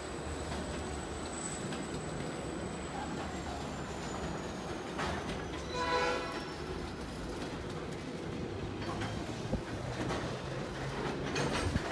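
Freight train of quarry hopper wagons rolling past with a steady rumble of wheels on rail. A short horn blast sounds about halfway, and a few wheel clacks come near the end.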